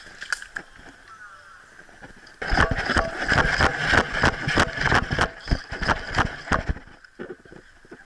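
Airsoft rifle firing a long, rapid burst of shots, starting about two seconds in and lasting around four seconds, with a few scattered shots before and after it.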